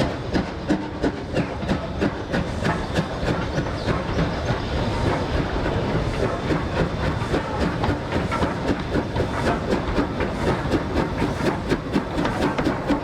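Train running along the line with a rapid, regular clickety-clack clatter.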